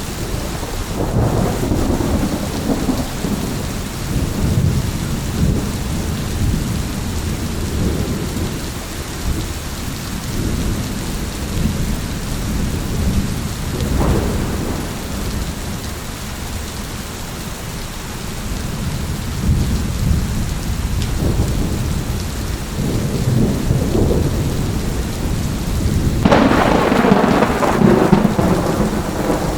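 Steady heavy rain with rolling thunder rumbling at intervals; a short crack about halfway through, and a loud, sudden thunderclap near the end that rumbles on.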